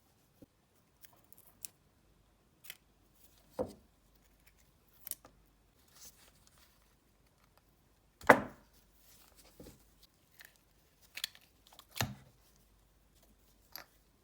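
Irregular clicks and knocks from tools and small parts being handled during repair work on a cordless impact wrench, with two louder knocks about eight and twelve seconds in.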